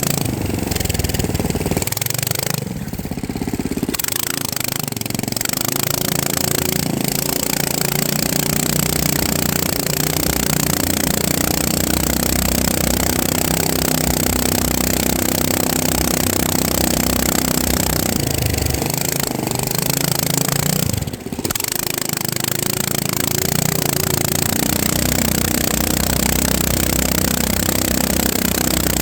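FPV quadcopter's motors buzzing steadily, with brief drops in throttle about three seconds in and again about twenty-one seconds in.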